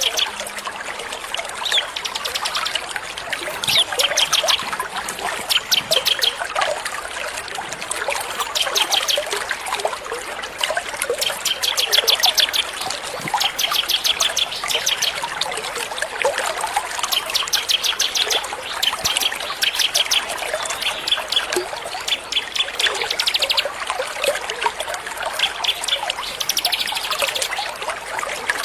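Small songbirds singing over a steady trickle of running water: short, fast, high chattering trills about a second long, repeated every second or two. This is a 'masteran' song recording of the kind played to train captive white-rumped shamas.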